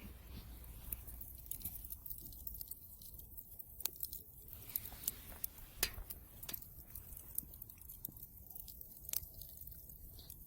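Wood fire crackling in a fireplace, with irregular sharp pops and snaps over a low steady hiss.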